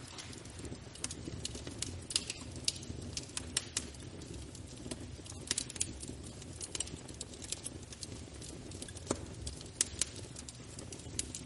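Wood fire burning in a fireplace: irregular crackles and sharp pops over a low, steady rumble of the flames.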